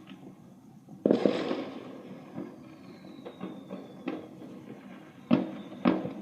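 Fireworks going off: a loud bang about a second in with a fading rumble, then scattered smaller pops and bangs, with a faint falling whistle in between.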